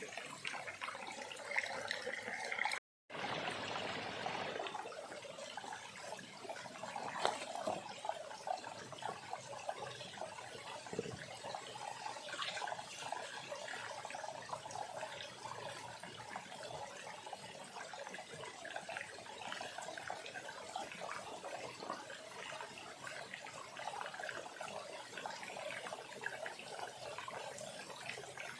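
Small stream trickling and running steadily over stones. The sound drops out for an instant about three seconds in.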